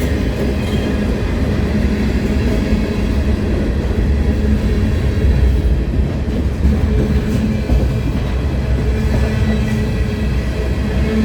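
Train rolling past close by: a steady, loud rumble of wheels on rail.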